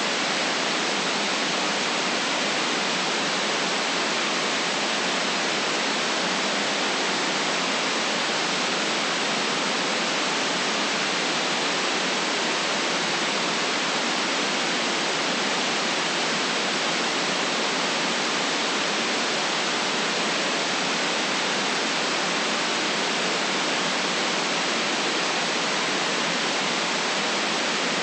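Steady synthetic white noise: a constant, even hiss with no change in level.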